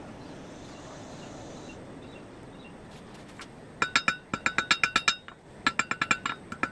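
Hand hammer striking a small piece of hot steel on an anvil in rapid ringing blows, several a second, drawing out the tip of a cut flooring nail to a point. The blows come in two quick runs starting about four seconds in, after a few seconds of steady low noise.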